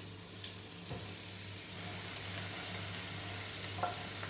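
Sliced artichokes sizzling as they are scraped into a pan of hot olive oil with onion and garlic; the hiss grows from about one and a half seconds in, over a steady low hum, with a couple of light knocks from the board against the pan.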